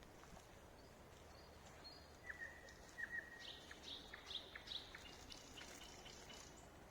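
A songbird singing: a few held whistles with a short drop at the end, then a quick run of higher, sharper notes and clicks.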